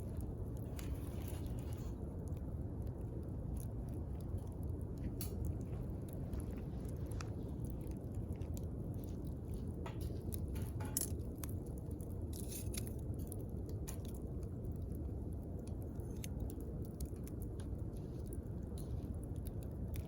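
Wood campfire crackling: scattered sharp pops and snaps over a steady low rumble of the burning fire.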